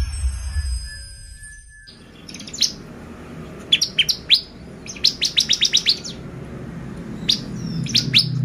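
Bar-winged prinia (ciblek) calling: sharp, high chirps that slur downward, given singly and in quick rattling runs, starting about two seconds in after an intro sound effect fades out.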